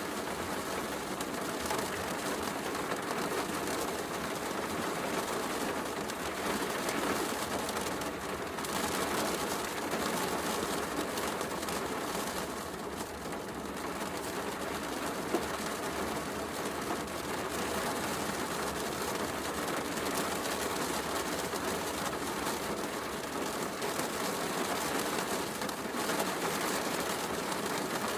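Heavy rain falling steadily, mixed with a fireplace's wood fire crackling and popping, with one sharp pop about fifteen seconds in.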